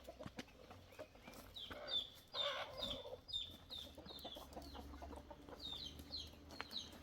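Chickens clucking and peeping: short, high, downward-bending calls repeat throughout, with a louder, fuller call about two and a half seconds in.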